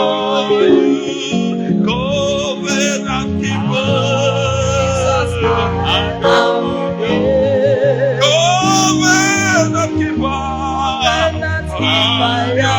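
Gospel worship music: a voice singing sliding, ornamented runs over held instrumental chords with a stepping bass line.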